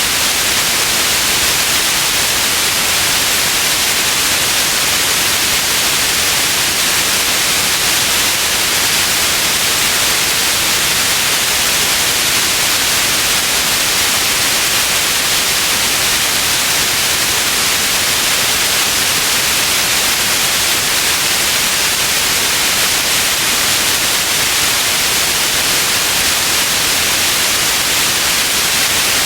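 Steady white noise: an even, unchanging hiss, brightest in the upper frequencies.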